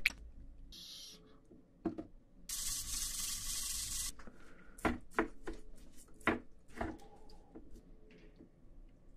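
A wooden spoon scraping and scooping rice inside a king crab shell: a long rough scrape a couple of seconds in, then several short knocks and scrapes of the spoon against the shell.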